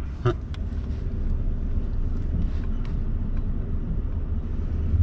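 A vehicle engine idling with a steady low rumble, with a few faint clicks over it.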